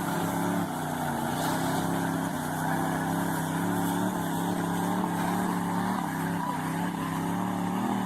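Big truck engine running at fairly steady revs, a low hum whose pitch steps down slightly a few times.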